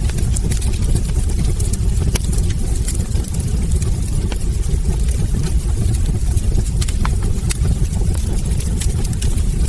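Wood fire burning in a fireplace: a steady low rumble of the flames with frequent small, sharp crackles and pops scattered irregularly through it.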